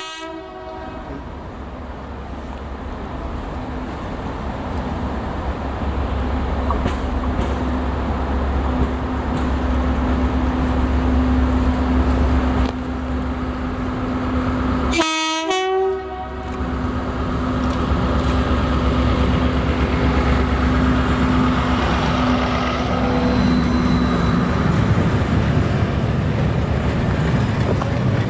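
Class 73/9 locomotive hauling a Network Rail test train, approaching and growing steadily louder, with a steady drone. About halfway through it gives one short horn blast, then the coaches run past with a rolling rumble.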